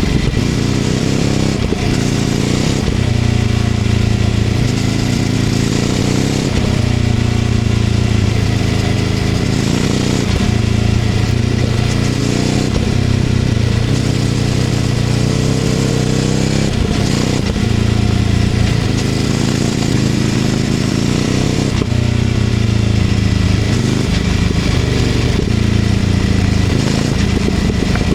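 Ducati Scrambler 800's air-cooled L-twin engine through a LeoVince LV-10 exhaust, under way: the revs rise and fall again and again as it pulls through the gears and eases off.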